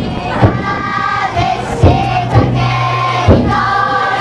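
Futon daiko float: a group of bearers chanting together in long held calls, with a big taiko drum on the float struck about once a second.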